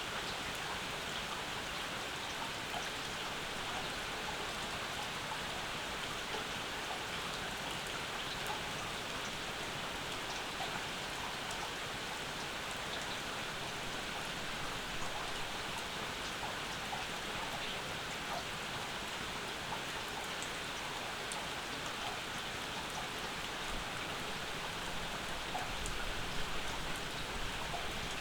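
Steady summer rain falling, with individual drops ticking close by. A brief low rumble comes in near the end.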